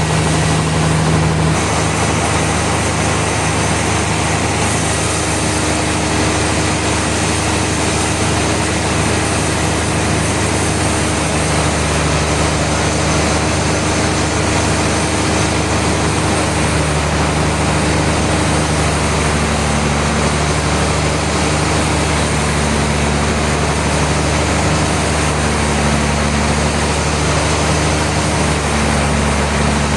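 Sawmill machinery running steadily: a constant low engine hum under a loud, even mechanical noise, with no breaks.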